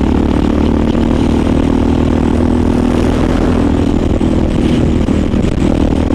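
Motorcycle engine running at a steady speed while riding, its note holding steady, over a constant rush of wind and road noise.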